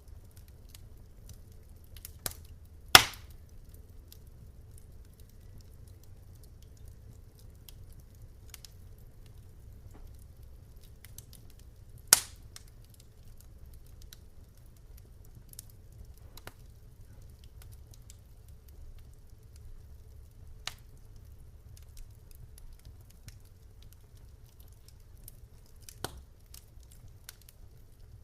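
Wood fire crackling in a fireplace: scattered sharp pops and snaps over a low steady rumble, with two loud pops about three seconds and twelve seconds in.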